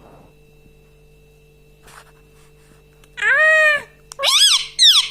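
Pet ring-necked parakeet calling: one long arched call about three seconds in, then two short rising-and-falling calls near the end.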